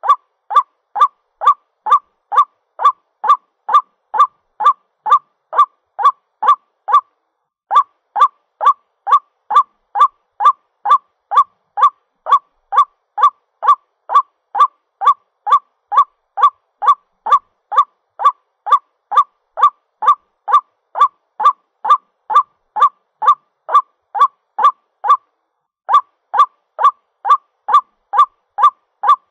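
White-breasted waterhen's mating call: one harsh note repeated about twice a second in a long steady series, broken by two short pauses.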